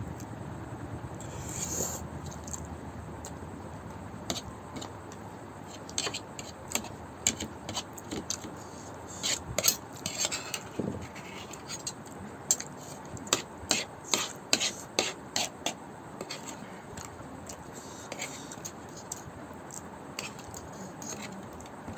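Close-up eating sounds of Maggi noodles with mutton gravy: a run of short clicks and scrapes, thickest through the middle of the stretch.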